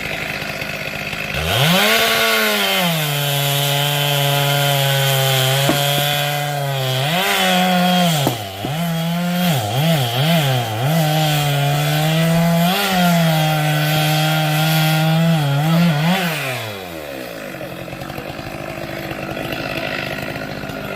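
Two-stroke chainsaw revved up to full throttle about a second and a half in. Its pitch sags and wobbles repeatedly as the chain bites into a log under load. About 17 s in the throttle is released and it drops back to a quieter idle.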